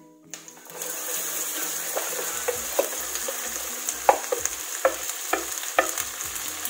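Onion and sliced okra frying in hot oil in a pan. The oil hisses steadily with scattered pops and crackles, starting about a second in after a brief quiet.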